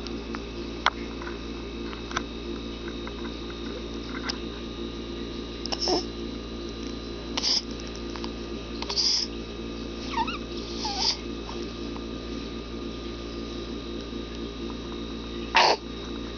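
A young infant's grunts and small squeaky vocal noises, short sounds every second or two, a few gliding in pitch, with a louder grunt near the end. A steady hum lies underneath.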